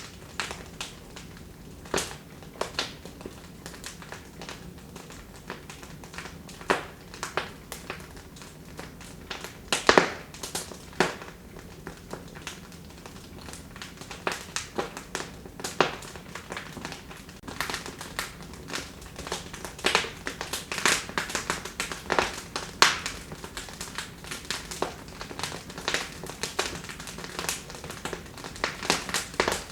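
Wood fire burning in a fireplace, crackling with irregular sharp pops and snaps that come thicker in the second half, the loudest snaps about ten seconds in and again past the twenty-second mark.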